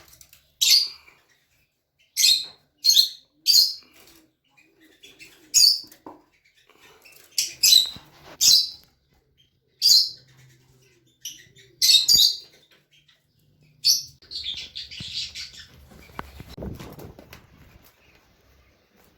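Small cage birds chirping: a dozen or so short, sharp high chirps at irregular intervals, then a brief burst of scratchy chatter about two-thirds of the way through.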